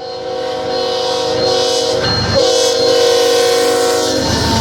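Air horn of a diesel freight locomotive, a rebuilt CN SD75I, sounding two long blasts with a short break about two seconds in. The low rumble of the passing train runs under them.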